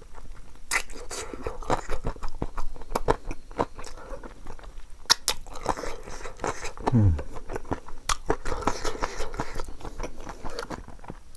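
Close-up chewing and biting as a man eats chicken curry with rice by hand: wet mouth clicks and crunches, with fingers working the rice on the plate. About seven seconds in, a short low sound falling in pitch, from his throat.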